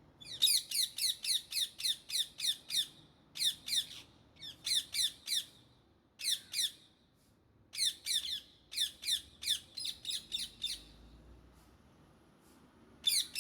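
Indian ringneck parakeet calling in shrill, rapid screeches, about four notes a second. The calls come in bouts of one to three seconds with short pauses between.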